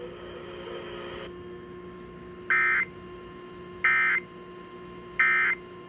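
Emergency Alert System end-of-message data tones on a radio broadcast: three short, identical electronic squawks about a second and a half apart, over a steady hum. They mark the end of the severe thunderstorm warning.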